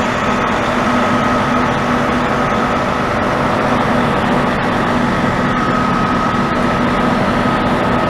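Shuttle bus running, heard from inside: a steady, loud drone with a constant hum that does not change.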